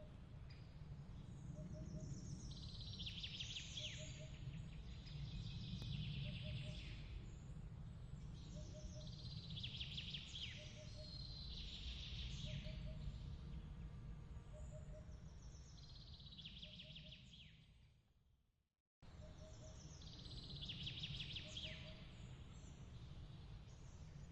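Nature ambience of chirping calls in short clusters every couple of seconds, over a low steady rumble, with a soft low double pip about once a second. About 18 seconds in, the sound fades out to silence and then restarts abruptly a second later, like a loop point in the track.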